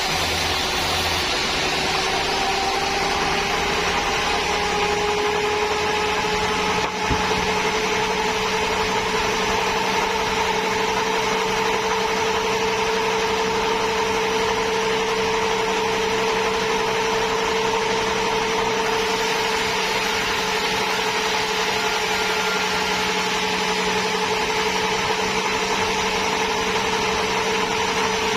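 Sawmill saw running steadily with a constant whine that rises slightly in pitch over the first few seconds and then holds, over a low hum. A single short knock sounds about seven seconds in.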